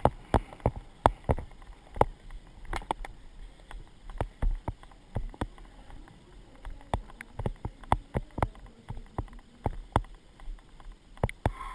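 Sharp, irregular knocks and clicks, about two to three a second, over a low rumble: the jolts of a moving horse picked up through a GoPro housing.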